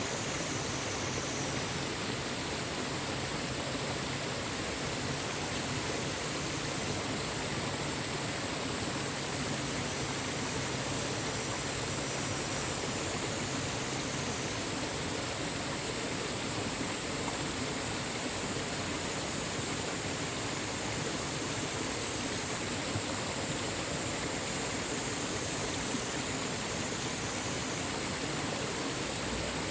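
Mountain valley stream, water flowing steadily.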